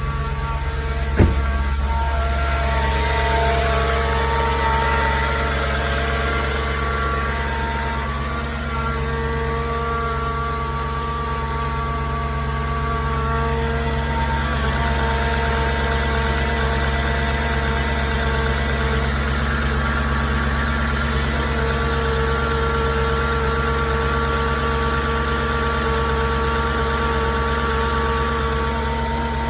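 Audi S4's 4.2-litre V8 idling on a cold start, with the radiator fan running a bit loud. There is a single sharp click about a second in. No timing-chain slap, only light ticking that the owner takes as normal.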